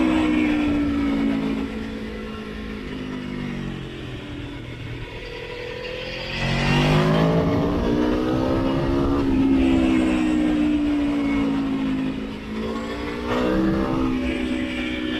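Sport motorcycle engine on the road: the revs fall away over the first few seconds, then it opens up hard about six seconds in and pulls steadily. Near the end the revs dip briefly and climb again.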